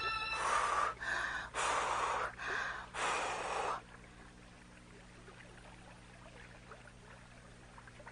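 A cartoon character's heavy, effortful breaths: five puffs in about four seconds, as if straining hard. Then only a faint steady hum.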